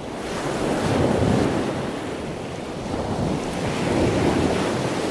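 Ocean surf: a steady rushing of waves that fades in and swells twice, about a second in and again near four seconds.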